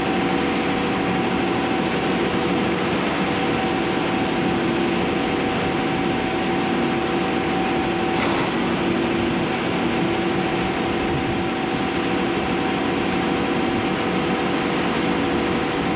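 Case IH 620 QuadTrac tractor's engine running steadily under way, a constant hum with several steady tones over an even rumble and no change in speed or load.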